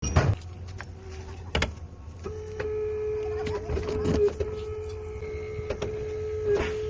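A small electric motor whining at one steady pitch, starting about two seconds in, among several sharp clicks and knocks.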